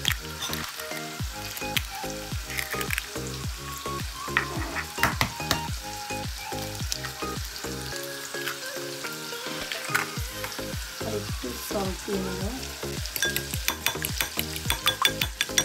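Marinated chicken sizzling in butter and oil in a frying pan, while eggs are cracked into a glass bowl and a fork clinks against the glass, the clinks quick and dense near the end as the eggs are beaten. Background music with a steady beat runs underneath.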